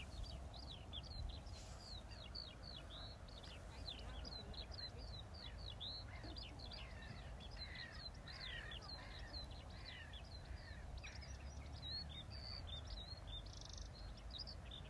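Birds calling in quick succession, a dense, fast run of short high chirps, with a few lower calls mixed in midway, over a faint low rumble.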